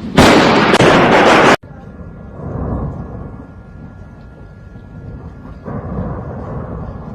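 A very close thunderclap, loud enough to distort, that cuts off abruptly after about a second and a half; then thunder rumbling on, swelling twice.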